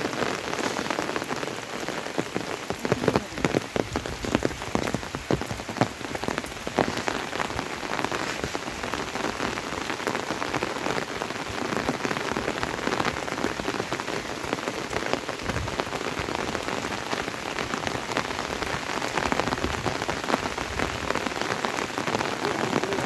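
Steady monsoon rain falling, with many individual drop hits throughout.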